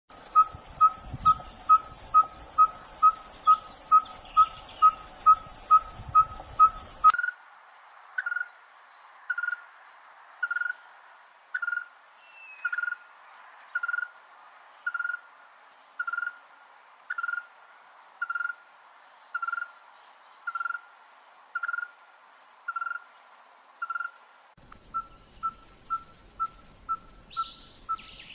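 A small bird calling a long series of short, clear notes, each at the same steady pitch. They come about two a second at first, slow to about one a second after about seven seconds, and quicken to about two a second again near the end.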